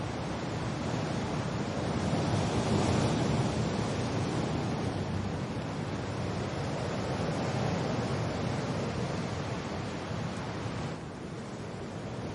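Wind and rain: a steady rushing noise that swells about two seconds in and drops off a little near the end.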